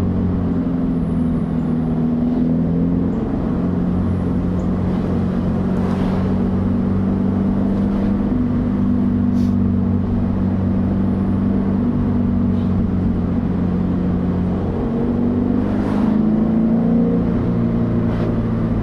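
FA20 2.0-litre flat-four of a BRZ/FR-S/GT86 running through a Borla 11839 axle-back exhaust at low road speed, heard from inside the cabin with the windows down. The exhaust note stays steady, with small shifts in pitch as the throttle changes.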